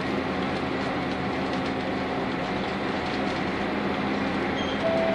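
Interior running sound of a Nissan Diesel UA city bus with a PU6 natural-gas (CNG) engine, cruising steadily with engine hum and road noise. A short steady tone comes in near the end.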